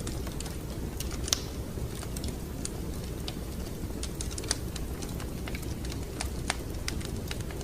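Wood fire crackling in a fireplace: irregular sharp pops and snaps over a steady low rumble of the burning fire. The loudest pop comes about a second in.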